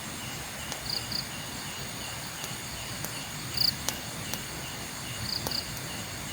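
Crickets and other night insects chirping steadily. Short paired chirps come about a second in, again near the middle, and again near the end, with a few faint ticks in between.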